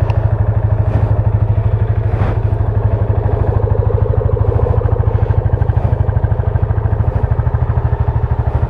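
Yamaha FZ25's 249 cc air-cooled single-cylinder engine idling steadily in neutral, its exhaust pulsing evenly. A couple of faint clicks sound about one and two seconds in.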